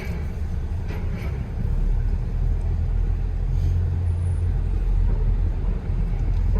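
Low vehicle rumble that grows louder about a second and a half in.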